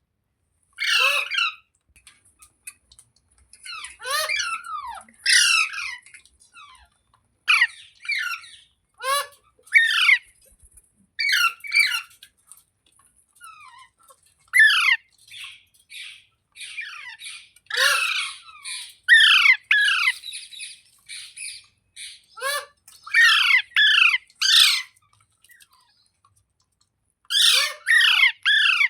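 Green ringneck parakeet giving harsh, repeated squawking calls. Each call is a quick falling screech, and they come singly or in quick runs of two or three, with short pauses between them.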